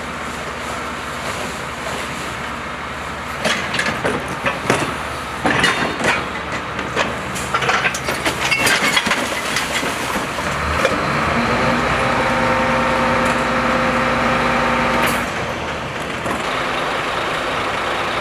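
Garbage truck at work: its diesel engine running, with a string of metal clanks and bangs from about three to nine seconds in as bins are handled. From about ten seconds in comes a louder steady drone with a whine as the compactor runs. It cuts off sharply about fifteen seconds in, and the engine drops back to a lower steady run.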